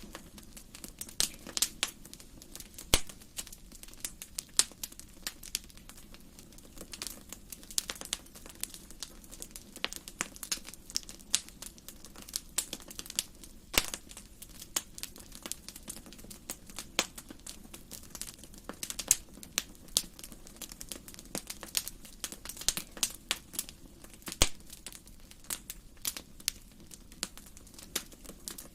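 Fire burning in a fireplace, crackling with irregular sharp pops and snaps over a faint steady background.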